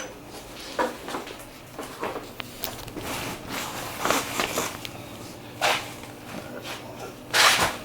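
Irregular clicks, knocks and scrapes of hand and tool work on a motorcycle's front brake line fittings, as the old line's hanger is pried off, with a louder rattling scrape near the end.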